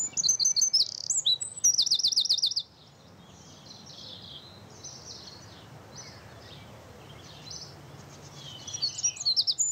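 Songbirds singing: a loud, rapid string of high chirping notes that cuts off suddenly after about two and a half seconds, then fainter scattered bird calls, with louder chirping coming back near the end.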